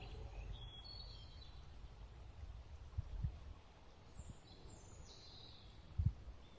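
Faint birdsong: a few short high chirps and twitters from small birds over a low steady background rumble. A few soft low thumps sound around the middle and near the end.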